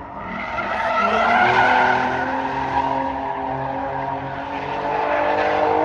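A car drifting: its engine revs hard, pitch stepping up and down with the throttle, over continuous tyre squeal and skidding. The sound swells about a second in and again near the end.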